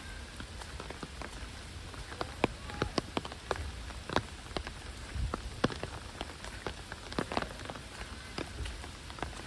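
Heavy rain: a steady hiss of rainfall with many sharp, separate drops tapping at irregular moments throughout.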